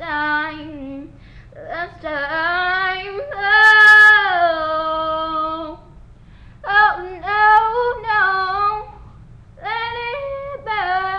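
A young woman singing unaccompanied, drawn-out sung phrases with a long held note in the middle and short breaths between phrases, over a faint steady low hum.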